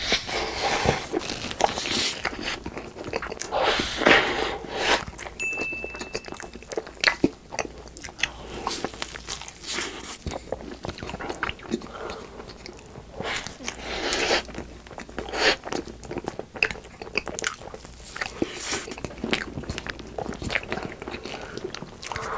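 Close-miked biting and chewing of soft cakes and cream-filled doughnuts, a dense, irregular run of mouth clicks and chewing noises.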